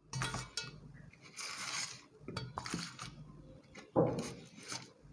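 Scattered light knocks, clicks and short rustles of things being handled, with a few louder clatters about four seconds in.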